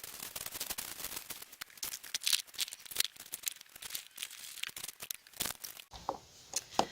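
Crinkling and rustling of something being handled: many quick, irregular crackles that stop about six seconds in.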